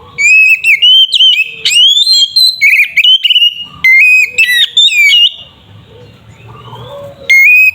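Oriental magpie-robin (kacer) singing loud, rich whistled phrases in quick varied runs, full of sharp pitch jumps and slides. It pauses for about two seconds, then starts again near the end.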